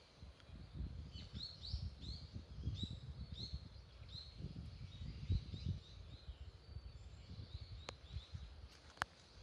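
A small bird singing a quick series of short, high chirps, about three a second, that fades out a couple of seconds before the end. Underneath runs an irregular low rumble, and two sharp clicks come near the end.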